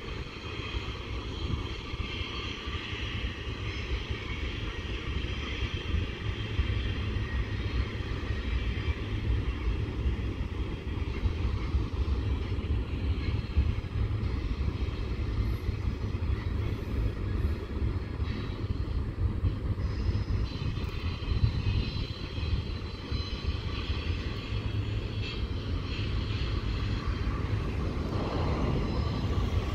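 Freight train rolling past: a steady low rumble with a fainter hiss above it.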